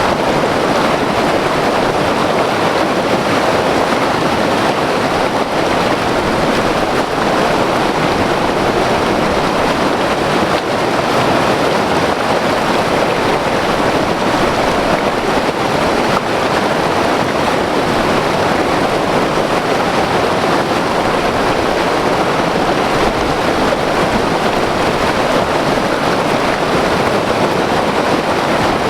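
White water river rushing over rocks, a loud, steady, unbroken roar of turbulent water.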